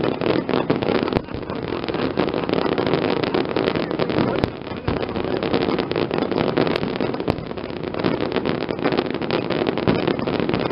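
Fireworks display going off continuously: a dense, unbroken stream of crackles and pops over a steady rumble.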